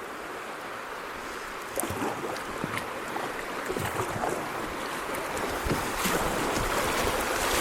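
Rushing creek water with paddle splashes from a kayak, growing louder from about two seconds in as it runs through rocky shallows.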